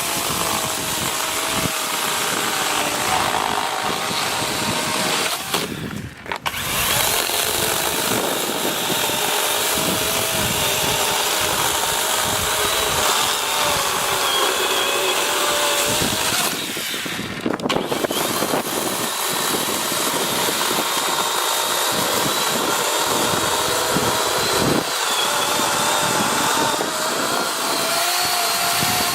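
DeWalt 20V cordless chainsaw running and cutting through a tree: a steady electric-motor whine with the chain tearing through wood. It briefly lets off about six seconds in and again around seventeen seconds in.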